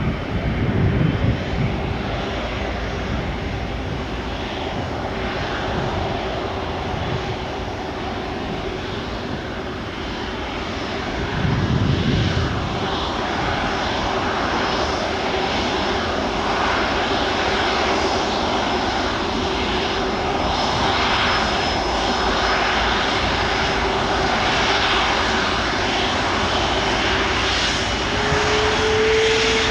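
Jet airliner taking off, its engines at takeoff power with a steady rumbling jet noise that grows louder about a third of the way in, and a droning tone that rises slightly near the end.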